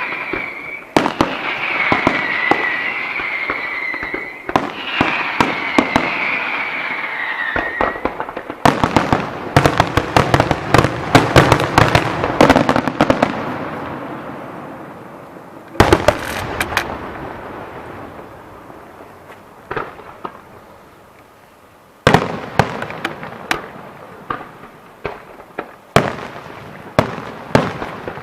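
Fireworks display: three long whistling shells, each ending in a falling pitch, then a dense salvo of crackling bursts and bangs that fades out. A few loud single reports and scattered pops follow later.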